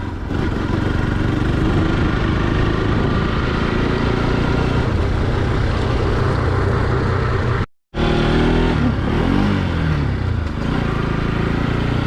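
Motorcycle engine running steadily while riding, with a rush of wind noise. The sound cuts out for a moment near the eighth second, then the engine pitch rises and falls briefly.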